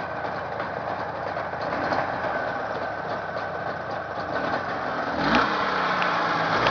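Jawa 638 two-cylinder two-stroke motorcycle engine running steadily during a check run after a rebuild, then speeding up and getting louder about five seconds in as the throttle is opened a little.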